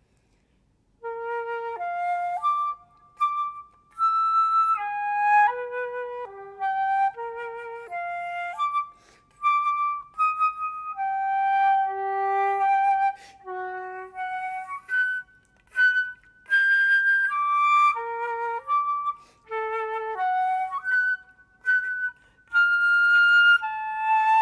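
Unaccompanied flute playing a lively melodic line of separate, quickly changing notes, starting about a second in.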